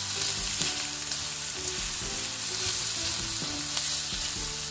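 Diced carrots sizzling in hot oil in a stainless steel wok, with small crackles, as a silicone spatula stirs them around the pan.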